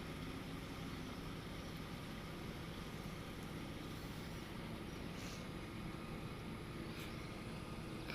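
Tugboat's diesel engine running steadily while towing a barge, a constant low drone with an even pulse.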